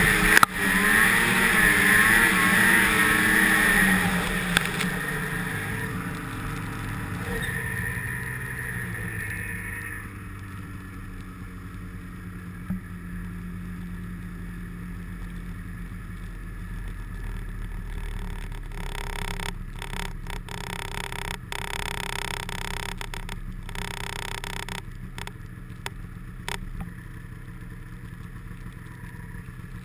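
Snowmobile engine running, its pitch wavering up and down, then falling away over the next several seconds to a quieter, steady low run. Scattered brief knocks come in the second half.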